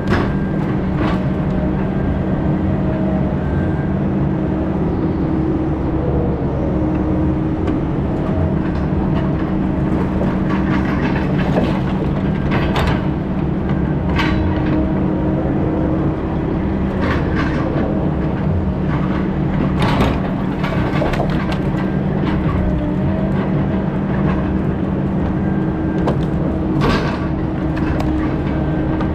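Engine of a heavy logging machine running steadily under load, with scattered sharp knocks and clanks.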